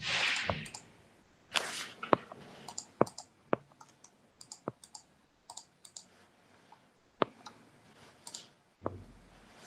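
Irregular sharp clicks of a computer mouse and keyboard, about a dozen spread unevenly, with two brief soft hissing noises near the start.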